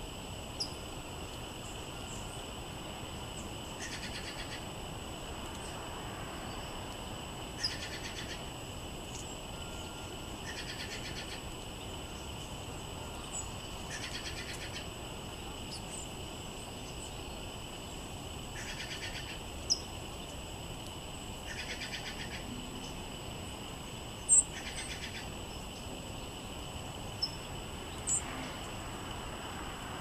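Songbirds calling: a short buzzy trill repeated about every three seconds and scattered high chirps, over a steady high-pitched drone. A few sharp taps come through, the loudest about two-thirds of the way in.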